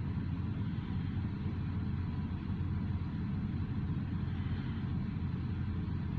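Freight train's tank cars rolling past with a steady low rumble.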